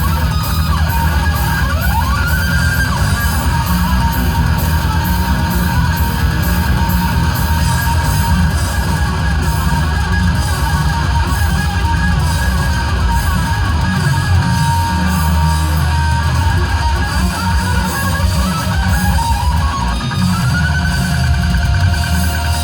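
Live heavy metal instrumental: an amplified electric guitar plays the lead line over a steady beat, with pitch slides near the start and near the end.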